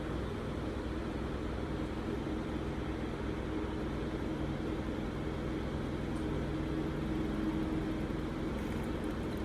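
Steady low mechanical hum with faint even noise and no distinct events: background room or appliance hum.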